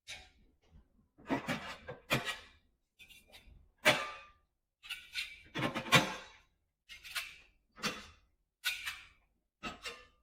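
Contents and fittings being taken out of a commercial refrigerator: a string of short, irregular knocks and clatters with silent gaps between them.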